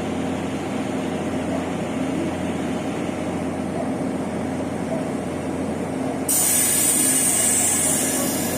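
Train running at a station with a steady low hum. About six seconds in, a loud hiss starts abruptly and continues.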